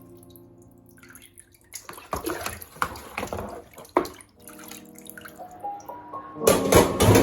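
Water splashing and dripping in irregular bursts, as from a tap, with a louder rush of running water near the end. Soft background music fades back in about halfway through.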